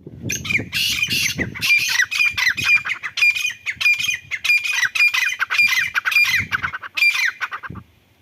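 Partridge of the kind kept as 'Irani teetar' calling in a fast, harsh run of repeated squawking notes, several a second, each sweeping downward. The calls stop suddenly near the end.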